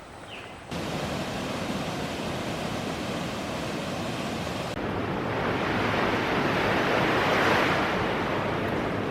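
Steady rushing water, a loud even hiss that cuts in abruptly about a second in. About five seconds in it switches abruptly to a brighter, swelling rush like breaking surf.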